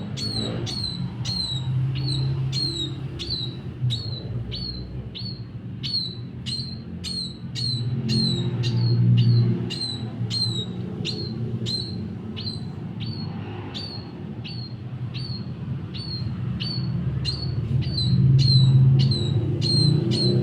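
A small bird chirping over and over, one short sharp call about twice a second, over a low steady hum.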